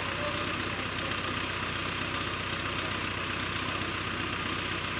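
Hydra crane's diesel engine running steadily.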